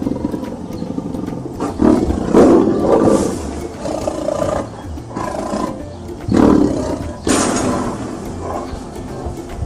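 Big cat roaring and growling, a series of rough calls, the loudest around two to three seconds in and again about six and seven seconds in.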